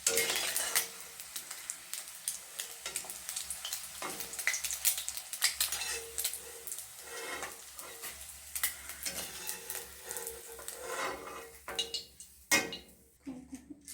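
Fried boiled eggs sizzling in hot mustard oil in a kadhai as they are lifted out, with a metal utensil scraping and clicking against the pan. The sizzle thins out near the end, just after one sharp knock.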